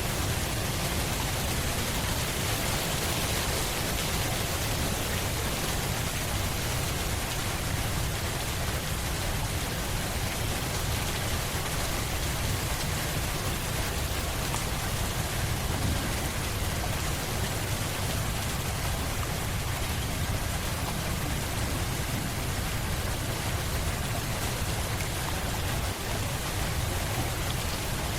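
Steady rain falling, an even hiss of rainfall with a low rumble underneath and no distinct drops or thunder claps standing out.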